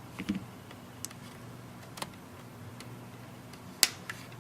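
Plastic retaining clips of a Samsung Galaxy Tab 3's back cover snapping loose as the cover is pried off: a few sharp, short clicks about a second apart, the loudest near the end. A faint steady low hum runs underneath.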